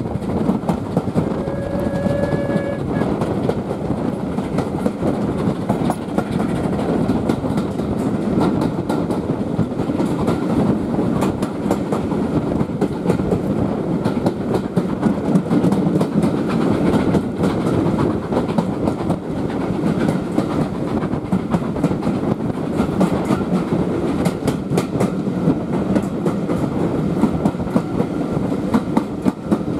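Passenger coach of a steam-hauled heritage train running at speed, heard from an open window: a steady rumble and rush of air, with irregular clicking of the wheels over the rail joints. A brief high tone sounds about two seconds in.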